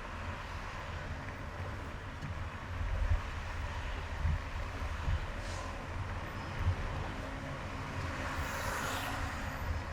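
Steady road noise of a car driving on a highway: tyre and wind noise over a low rumble, with irregular low bumps. A brief rise in hissing comes about nine seconds in.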